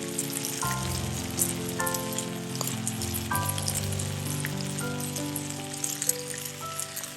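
Steady sizzling and crackling over a campfire, under soft background music with slow, sustained notes entering every second or two.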